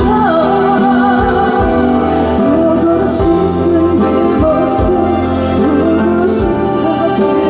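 Live trot song: a woman singing a wavering melody with vibrato over a backing band with regular drum hits and cymbal crashes.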